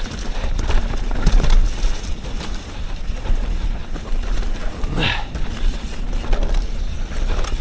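Wind buffeting the microphone and a steady rumble of tyres and frame as a Yeti SB 150 29er mountain bike is ridden along a dirt trail. A short rising-and-falling squeak comes about five seconds in.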